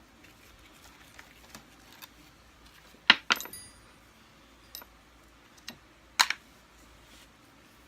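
A few sharp metallic clicks and clinks from a screwdriver and small screws being worked out of a Kirby vacuum's front face plate, the loudest about three seconds in and just after six seconds, one with a brief ring.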